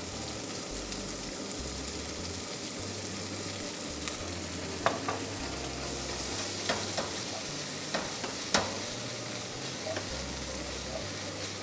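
Green beans being stir-fried in a hot pan with oil and a splash of soy sauce: a steady sizzle, with the spatula knocking and scraping against the pan several times in the second half.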